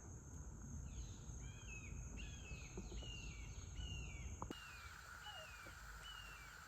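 A bird calling over and over, a short whistled note that falls in pitch, about once a second, over a steady high thin insect drone and low outdoor rumble.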